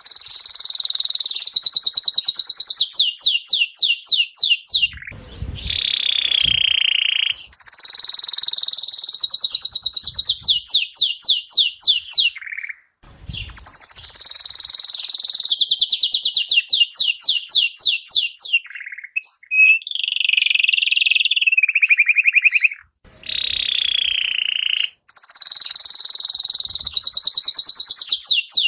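Domestic canary singing: long high-pitched phrases of rapid repeated trill notes, some sliding down in pitch, with short pauses between phrases.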